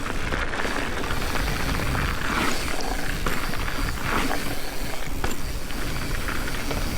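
Wind rushing over the microphone and the tyres of a mountain bike rolling over dirt and gravel, with a few light crunches and clicks.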